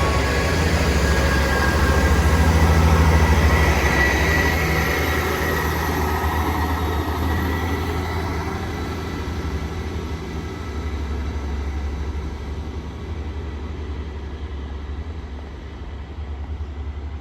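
Two coupled Class 158 diesel multiple units pulling away, their underfloor diesel engines giving a low drone. The sound is loudest about three seconds in and then fades steadily as the train draws off.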